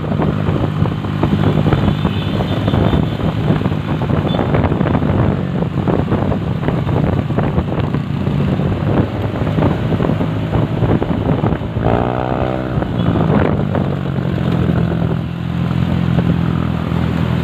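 Motor vehicle engine running steadily under a noisy rush, with a short pitched sound about twelve seconds in.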